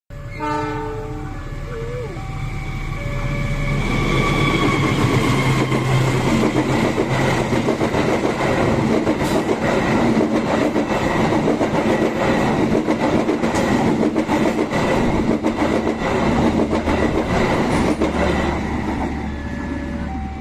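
A train passing: a loud rumble with the rapid clatter of wheels over the rails and a steady high whine, swelling about four seconds in and fading near the end. Short electronic beeping tones are heard at the start and again as it fades.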